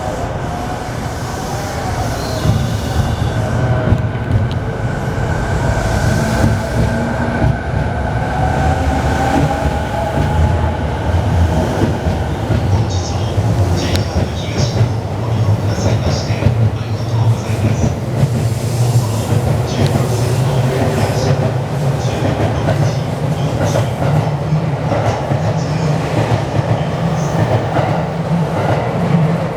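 JR East E217-series electric multiple unit running away from a station: a steady rumble of wheels on rail with a faint electric motor whine that slowly changes pitch, and wheels clacking over rail joints in the later part.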